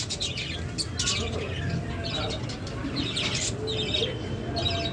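Pet lovebirds chattering in repeated short bursts of rapid, high chirps.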